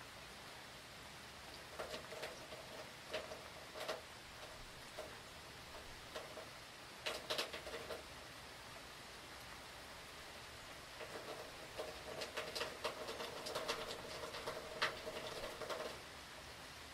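Steady rain hiss with water drips tapping on a hard surface in irregular clusters, now sparse, now in quick runs, densest from about eleven to sixteen seconds in.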